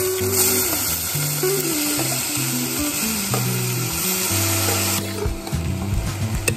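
Shredded potato strips sizzling as they hit hot oil in a stainless steel pot. The sizzle dies down about five seconds in, and a spoon then clinks and scrapes against the pot as the potatoes are stirred.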